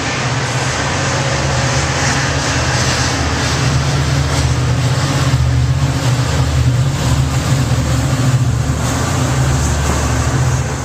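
Amtrak Surfliner train creeping past at close range, its trailing F59PHI diesel locomotives running with a steady, loud low drone over the rumble of the passing train.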